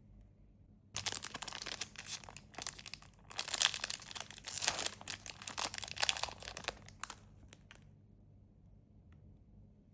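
Plastic candy wrapper crinkling and tearing as it is handled and opened, starting about a second in and stopping about two seconds before the end.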